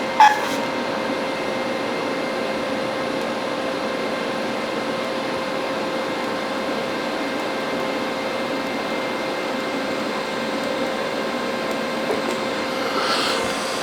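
TIG welding arc on stainless steel: a steady hiss with a steady hum under it, and a sharp click just after the start.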